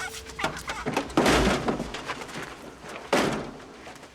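Two heavy thuds, the first about a second in and the second about two seconds later, with lighter knocks and clatter around them.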